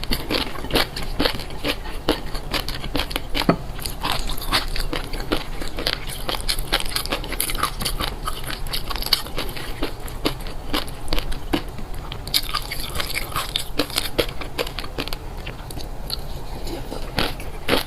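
Close-miked eating: a person steadily chewing crisp food, with dense crunching and crackling clicks several times a second.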